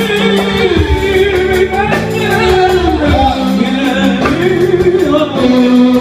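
Live music: a man singing a melodic line with bending, held notes over accompanying instruments.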